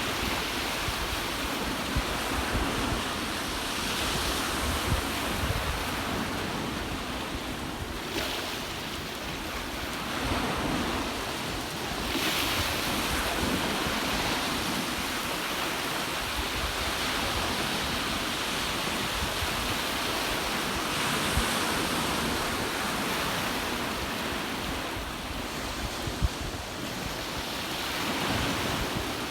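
Ocean surf washing on the shore: a steady noise that swells and eases every few seconds, with wind rumbling on the microphone.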